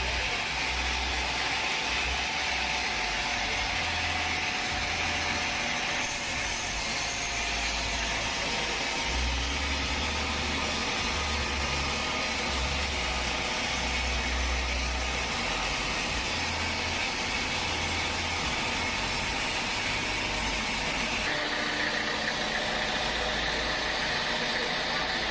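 Sawmill machinery running steadily: an engine hum with a low rumble that swells and fades, and the sound changes abruptly twice, about six seconds in and again near the end.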